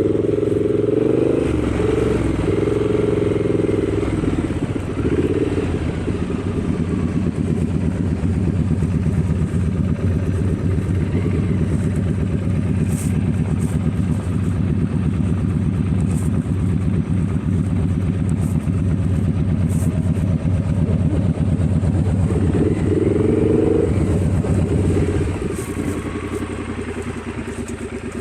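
Motorcycle engine running on the move, with the engine note rising under throttle near the start and again a little before the end, then easing off and dropping in level about 25 seconds in.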